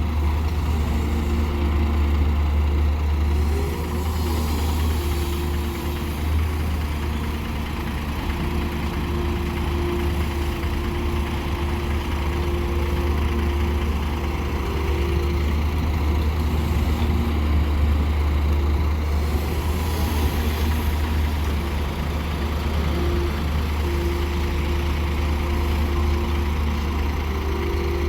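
Heavy diesel engines of an excavator and dump truck running steadily: a deep continuous drone, with a fainter higher whine coming and going.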